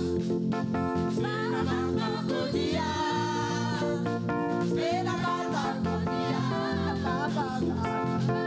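Gospel praise music: singing over instrumental accompaniment, playing steadily.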